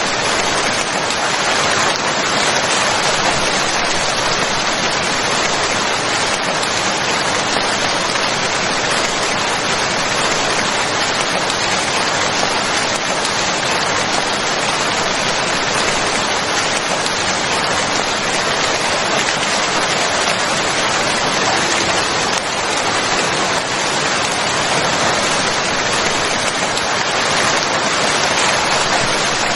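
Steady heavy rain falling, a dense, even hiss of drops with no let-up.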